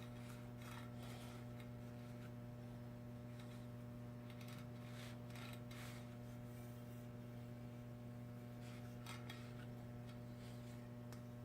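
Steady low electrical hum with faint, irregular clicks and rubbing as bicycle hub parts are wiped clean and handled.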